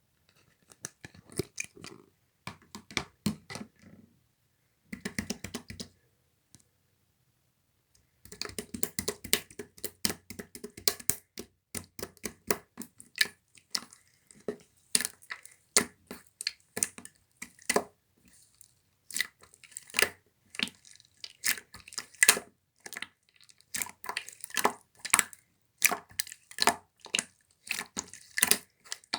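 Translucent slime being squished and worked by hand, making rapid sticky clicks and pops. There are short pauses about four and seven seconds in, and the clicking grows denser after about eight seconds.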